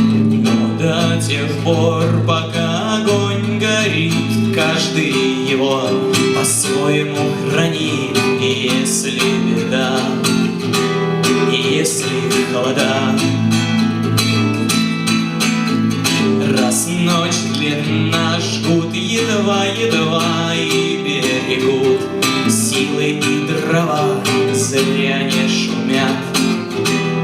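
Acoustic guitar strummed in a Russian bard song, with a voice singing over the chords.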